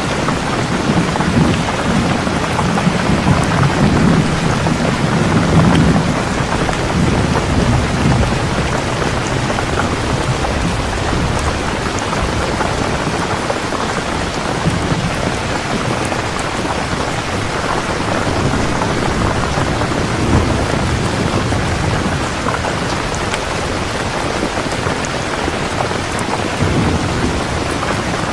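Heavy rain falling steadily, with low thunder rumbling through it, strongest in the first several seconds and rising again briefly twice later.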